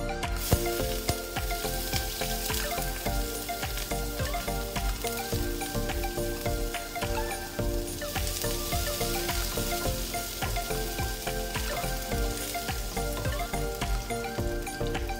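Chopped onion and spices sizzling in hot oil in a pan as they are stirred with a wooden spatula, under background music.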